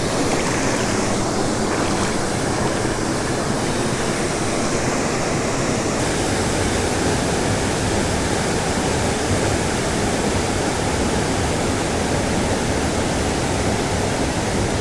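Small creek waterfall pouring into a pool: a steady, even rush of falling water.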